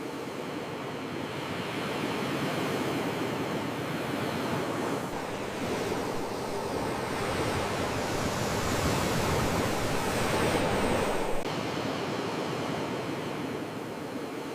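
Sea waves washing in, a continuous rushing surf that swells to its loudest past the middle and then drops back abruptly about eleven seconds in.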